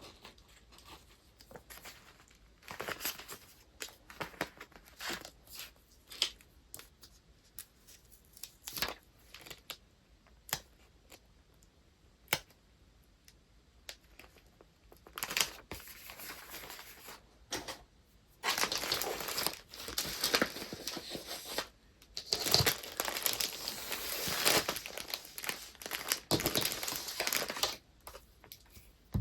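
Paper and packaging being handled and wrapped: short rustles and clicks at first, then long stretches of dense paper crinkling in the second half.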